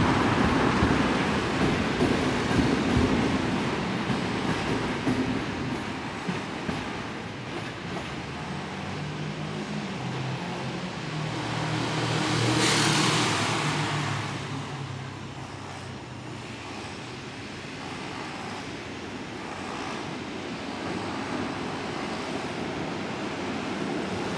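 Red electric passenger train rumbling across a steel railway bridge, loudest at first and fading as it clears. About halfway a vehicle rushes past, and near the end a tram comes through the cutting below.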